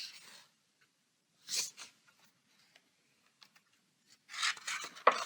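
Quiet paper rustling as a picture-book page is handled and turned: a short rustle about a second and a half in, then a longer rustle with a few light clicks near the end.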